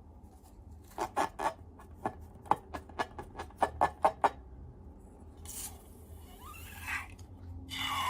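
Slime being handled: a quick, irregular run of a dozen or so sharp wet pops and clicks, then a softer rubbing hiss with a brief squeak, growing louder near the end.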